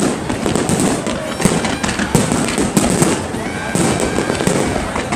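Fireworks display going off in a continuous stream of rapid bangs and crackling, with no pause.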